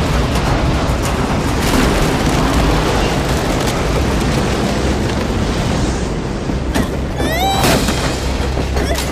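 Cartoon tornado sound effect: a loud, continuous rushing roar of wind with a deep rumble underneath. A brief wavering high sound cuts through about seven and a half seconds in.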